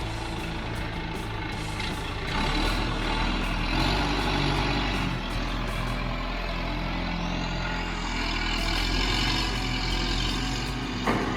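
Large engine running steadily, getting louder about two seconds in as it works.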